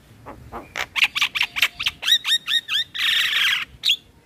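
Male Javan myna singing: a quick run of short sharp notes, then four repeated whistled notes, then a harsh rasping screech about three seconds in.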